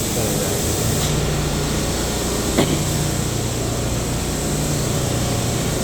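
Steady low hum of a New York City subway train and its air conditioning at a station platform, with one short click about two and a half seconds in.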